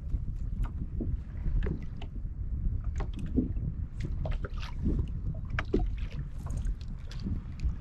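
A fishing kayak moving through the water: small irregular splashes and water lapping against the hull, over a low rumble of wind on the microphone.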